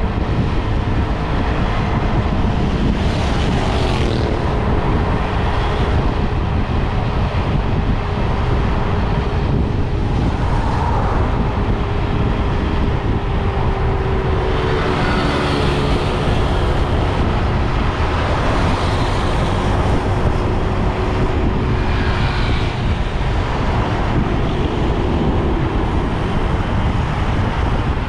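Motorbike riding along a road: wind rushing over the microphone with the bike's engine running steadily underneath and passing traffic.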